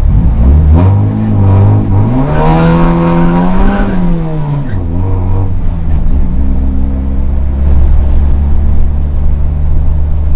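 Rally car's engine heard from inside the cabin. It revs up briefly, dips, then climbs to a peak about four seconds in. It drops back and runs steadily at low revs for the rest of the time.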